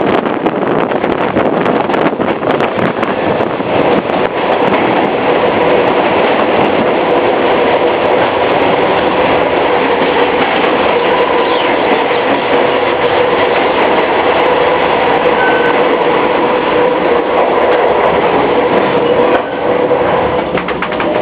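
Copper Canyon Railway passenger train running along the track, heard from the carriage. The wheels on the rails make a loud steady noise with scattered clicks and a faint steady whine.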